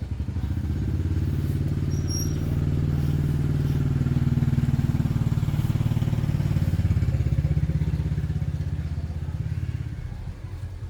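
A small engine running steadily with an even, rapid firing beat. It builds up in the first second and eases off slightly near the end.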